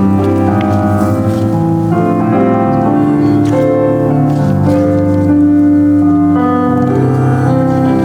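Piano playing a worship song in held, sustained chords, the notes changing about once a second.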